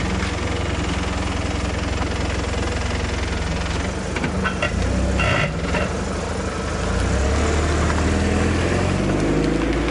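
A vehicle engine running at idle with a steady low hum. A few short higher-pitched sounds come around the middle, and the engine grows a little louder for the last few seconds.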